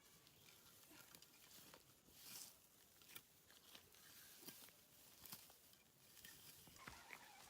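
Near silence: a faint hiss with scattered soft ticks and rustles.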